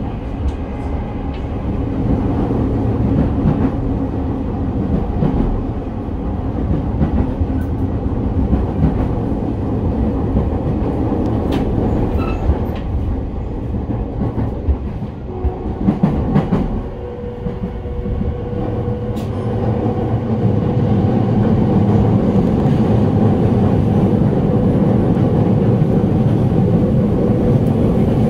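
Running sound of a JR East E217 series electric train, heard inside a motor car: continuous wheel-on-rail rumble with occasional clacks from the track. A steady tone comes in past the middle, and the sound grows louder from about two-thirds of the way through.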